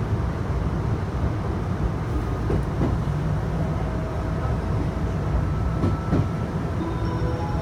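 Chichibu Railway electric train running along the line: a steady low rumble with faint whining tones that come in about halfway through, and two pairs of short knocks from the wheels.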